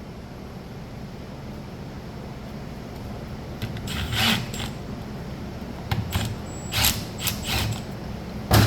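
Metal engine parts and hand tools clinking and scraping as the electric starter motor is worked loose from a two-stroke dirt bike engine on the bench: quiet at first, then a handful of sharp metallic knocks in the second half, the loudest near the end.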